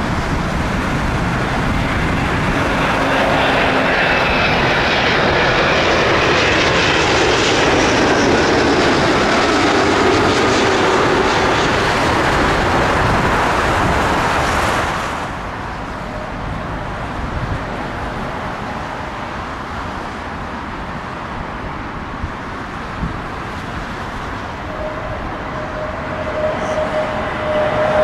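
Jet airliner passing low overhead, engine roar with a falling whine that builds for the first half and then cuts off suddenly about halfway through. After that a quieter jet rumble continues, and a steady engine tone rises near the end as another airliner approaches.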